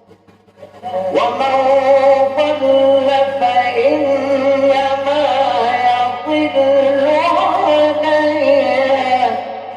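A male Quran reciter's voice drawing out one long, ornamented melodic phrase in the chanted mujawwad style. It comes in about a second in, wavers up and down in pitch, and fades near the end. A steady low hum runs beneath it.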